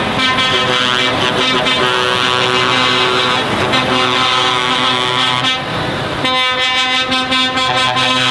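Truck air horns sounding in long, overlapping blasts at several pitches, over the noise of passing lorries. One set of horns drops out about five and a half seconds in, and another starts about half a second later.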